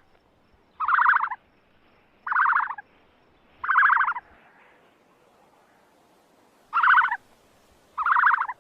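An animal's call repeated five times, each a short, rapidly pulsed call of about half a second, with a longer pause after the fourth.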